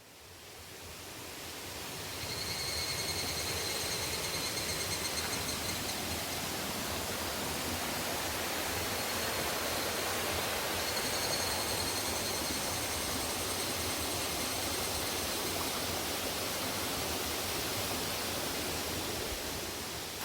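Waterfall: a steady rush of falling water that fades in over the first two seconds. A faint, high, steady tone sounds twice over it, a few seconds each time.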